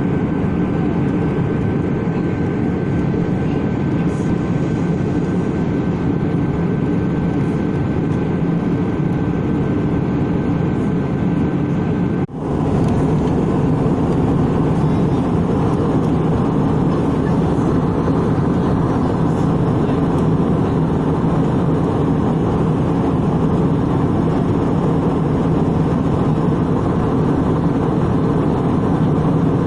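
Steady engine and airflow noise of an Airbus A320 heard inside the passenger cabin, with a low hum and a few faint steady tones. It breaks off for an instant about twelve seconds in, then carries on at the same level.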